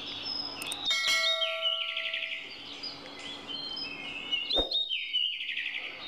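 Forest birds calling and singing, with repeated chirping and short trilled phrases. A sharp click comes about a second in and another, louder, just past the middle.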